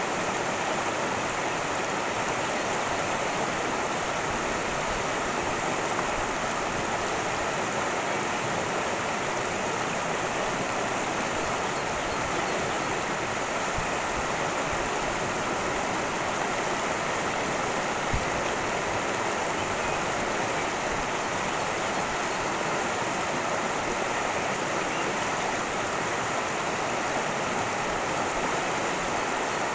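Cascading stream, a steady unbroken rush of water.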